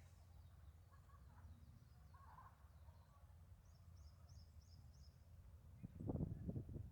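Quiet outdoor ambience with a low rumble; a small bird gives a quick run of five high chirps in the middle. Footsteps on a path start near the end.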